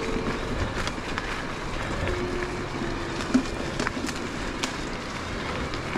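Electric mountain bike rolling along a rough trail: steady tyre and riding noise with scattered sharp clicks and rattles from stones and the bike.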